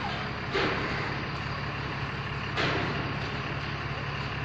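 A vehicle engine running steadily with a low hum, with two sudden noisy swells, about half a second in and again about two and a half seconds in.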